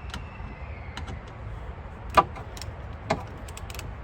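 Scattered sharp clicks and knocks of hand tools and plastic trim pieces being worked on a car's fender, the loudest knock a little past halfway, over a steady low background rumble.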